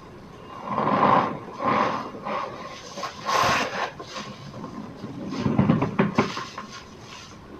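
Cornstarch powder squeezed and pressed by hand, giving squeaky crunches in a handful of separate bursts.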